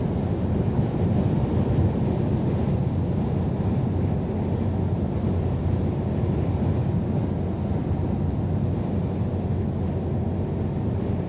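Scania R500 truck driving at a steady speed, its engine and tyre noise making a steady low drone without changes.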